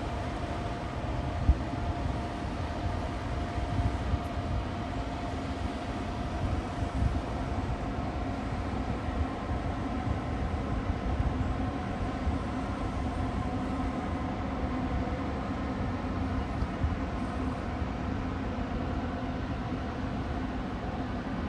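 Steady low hum and drone of the cruise ship Octantis's engines and machinery passing, carrying a few faint steady tones, with wind rumbling on the microphone.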